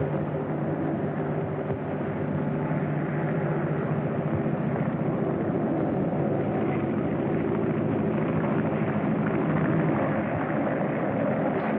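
Steady running noise of a large vehicle, a continuous rumble with a low hum, starting abruptly at a cut.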